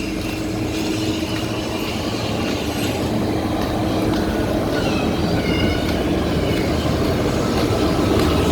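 Road traffic: a steady engine rumble that grows gradually louder, as of a vehicle approaching.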